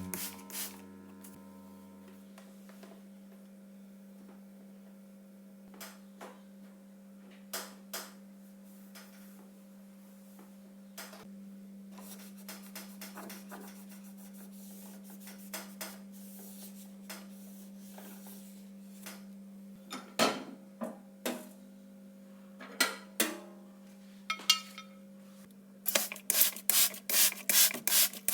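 Wiping and scrubbing during household cleaning: scattered light knocks and rubbing, then a quick run of scrubbing strokes near the end, over a steady low hum.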